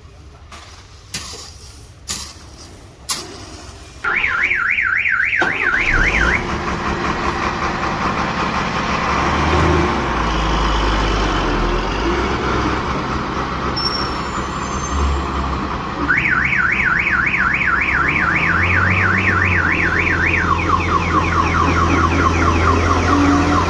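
A warbling electronic alarm tone sweeping rapidly up and down, about five times a second: first briefly about four seconds in, then again for the last several seconds. Under it runs a steady low engine rumble, and a few clicks come in the first seconds.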